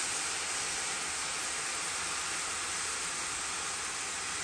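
Sliced button mushrooms and onions sizzling in oil in a frying pan: a steady hiss.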